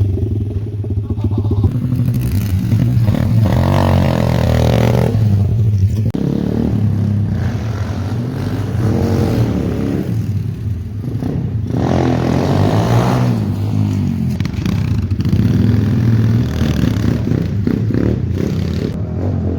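Pit bike engine running and being revved up and down several times, its pitch rising and falling.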